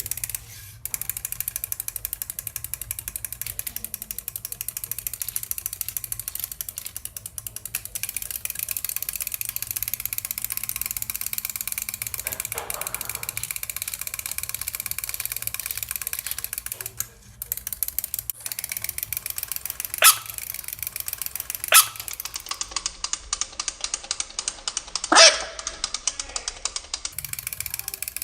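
A fast, steady train of ratchet-like clicks, with a few louder sharp snaps in the last several seconds.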